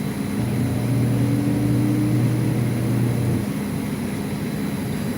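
Panasonic automatic washing machine's drum spinning during a spin test: a steady motor hum with a faint rising whine, the lowest hum dropping away about three and a half seconds in.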